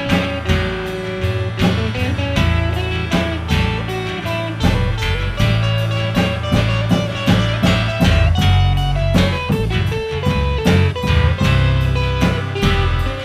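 Blues-style band music with no singing: guitar playing a melody over bass and a steady drum beat.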